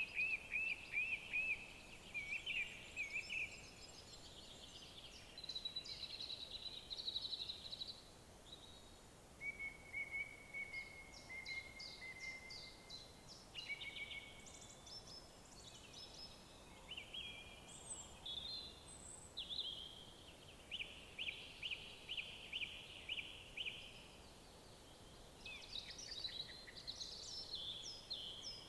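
Several songbirds singing in woodland: overlapping phrases of quick repeated notes, trills and short high whistles follow one another throughout, over a faint steady background hiss.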